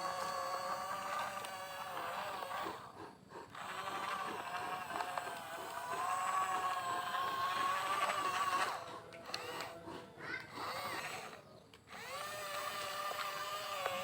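Small electric gear motors of a radio-controlled construction model whining as they drive, the pitch bending a little with load. The whine breaks off briefly about three seconds in and cuts on and off in short spurts near the end.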